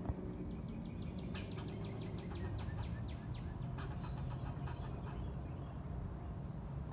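Squirrel chattering: fast runs of sharp clicks, about ten a second, that start a little over a second in and again near the middle, over a steady low hum.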